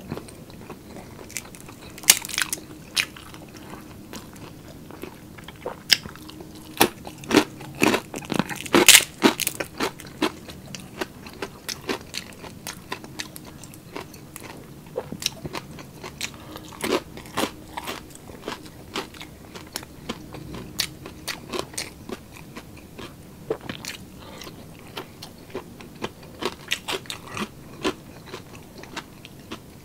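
A person chewing and crunching mouthfuls of milkfish sisig and squid adobo close to the microphone, with many short wet clicks and smacks, busiest from about seven to ten seconds in.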